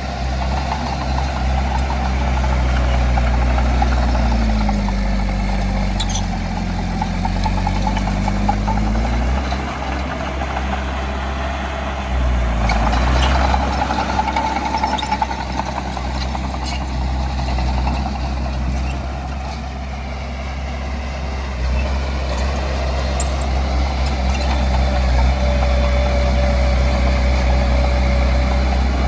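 Heavy diesel engine of earthmoving machinery running under changing load. Its pitch sags and recovers in the first several seconds, and the loudness rises twice later on.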